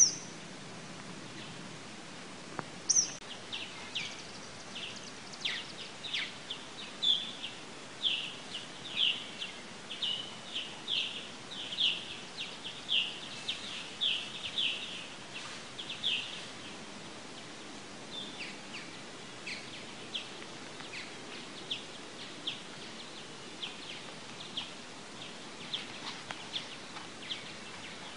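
A songbird calling over and over in short downward chirps, about two a second, loud for the first half, then fainter and sparser, over faint outdoor ambience.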